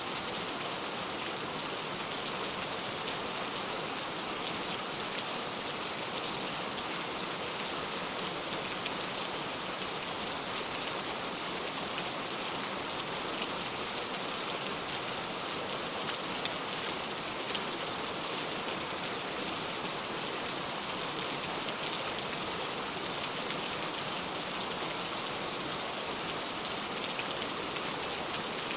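Steady rain falling on the ground, a dense even patter of many small drops with no let-up.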